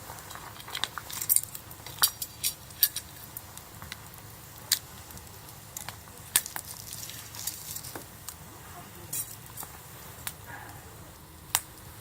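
Wood campfire crackling, with sharp, irregular pops and snaps over a faint steady hiss.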